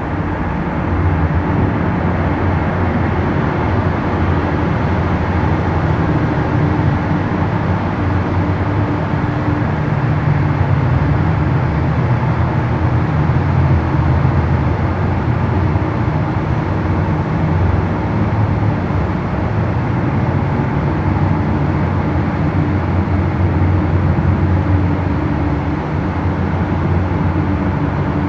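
Engines of jet skis and show boats running on the water, a steady low rumble.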